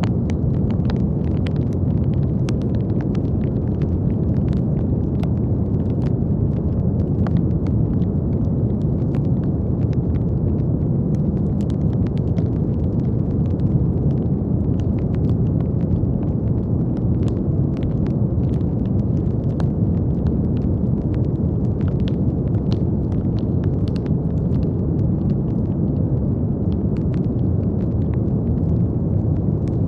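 Steady brown noise: a deep, even rumbling hiss with no pitch and no change in level. Faint, irregular crackles are scattered through it.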